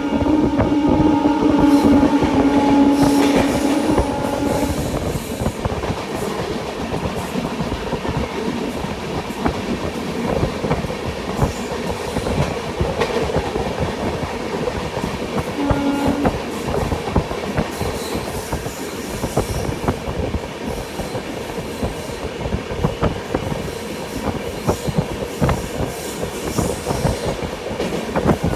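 Express passenger train running at speed, heard from inside a coach: a steady rumble and rush with wheels clattering over rail joints. A train horn sounds for about four seconds at the start and briefly again about halfway through.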